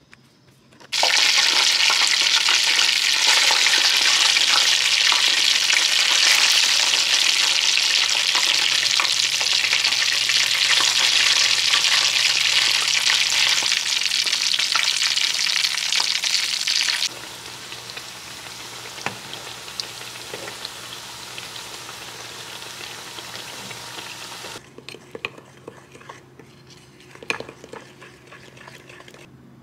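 Pieces of homemade dough frying in hot oil, sizzling loudly. The sizzle drops suddenly to a quieter level partway through, then fades to a faint hiss with a few small clicks near the end.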